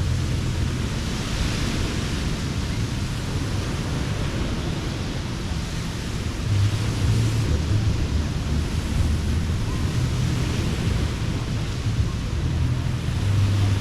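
Ocean surf washing onto a beach, swelling every few seconds, over a steady low rumble of wind on the microphone.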